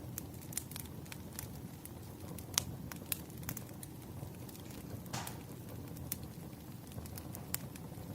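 Wood fire crackling: scattered sharp pops and snaps at irregular intervals over a steady low rumble of the burning logs, with a brief hiss about five seconds in. The loudest pop comes a little after two and a half seconds in.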